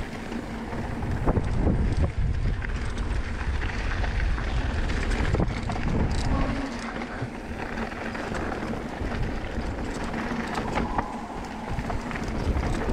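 A mountain bike riding down a dirt trail: wind buffeting the microphone over the rumble of the tyres, with scattered sharp knocks and rattles from the bike.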